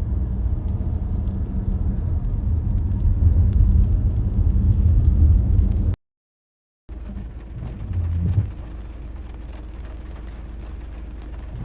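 Storm wind buffeting a car, a heavy low rumble with faint ticks against the body as the car shakes. The sound cuts out completely for under a second about six seconds in, then comes back quieter.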